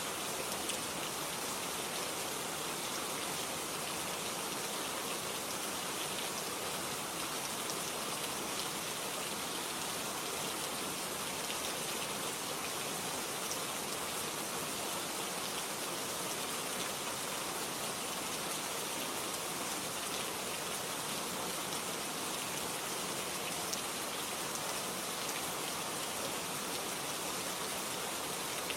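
Steady rain ambience: an even hiss of rainfall with faint scattered drop ticks.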